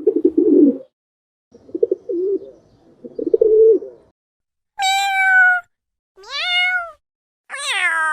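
A cat meowing three times, each meow under a second and falling slightly in pitch at the end, after three short, low, rough calls in the first half.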